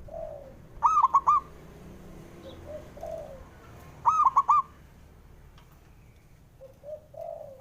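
Zebra dove (perkutut) singing. Twice, a soft low lead-in note is followed by a quick run of three or four loud, clipped notes, and a third song begins near the end.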